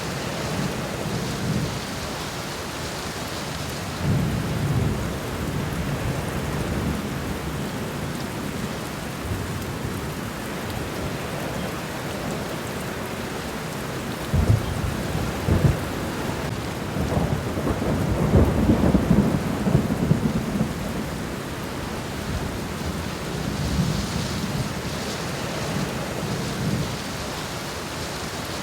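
Steady rain falling on the ground, a constant hiss, with several low rumbles swelling through it, the loudest and longest around the middle.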